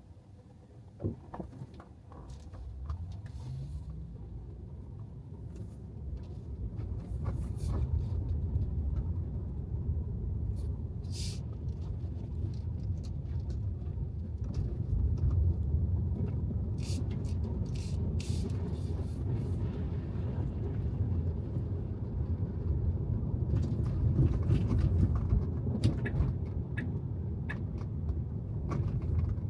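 Road and tyre noise of a Tesla Model 3 driving on wet pavement: a low rumble that builds as the car picks up speed about two seconds in, then holds steady, with scattered sharp clicks and ticks.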